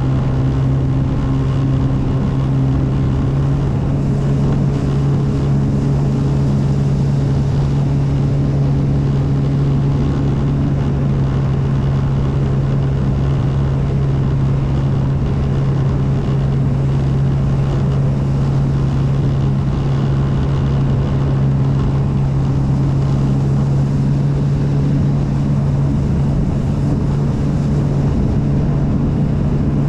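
Jet ski engine running at a steady, unchanging pitch while under way, with wind buffeting the microphone.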